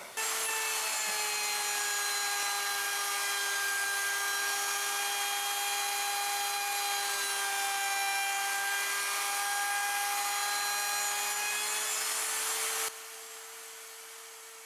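Porter Cable 690 router motor, mounted upside down in a router table lift, switched on and running with a steady whine. Near the end it is switched off, and the drone fades as the motor spins down.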